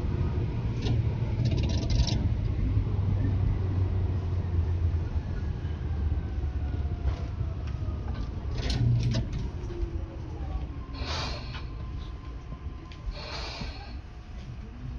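Tobu 10030 series electric train running, heard from inside the car near its under-floor line breaker: a steady low rumble with faint tones falling in pitch midway. The sound gets quieter in the second half as the train slows, with two short hisses near the end.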